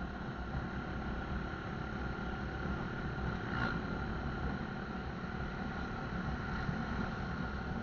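Motorcycle running steadily while being ridden, its engine rumble mixed with road and wind noise.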